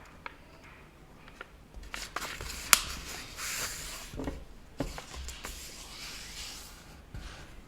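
A sheet of paper being folded and creased by hand: rustling and sliding with scattered clicks, and one sharp snap a little over a third of the way through.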